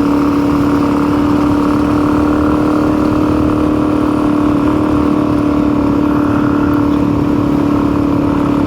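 Suzuki DR-Z's single-cylinder four-stroke engine running under way at a steady speed and pitch. The rider says the bike loses power in the hills and suspects it may be running a little rich.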